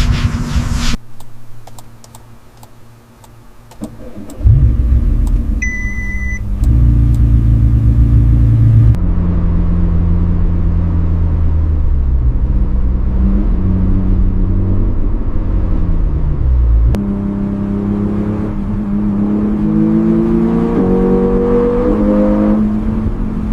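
An old car's engine starts up with a sudden rise about four and a half seconds in, and a short electronic beep sounds just after. The engine then runs steadily, its pitch rising and falling repeatedly as it is revved.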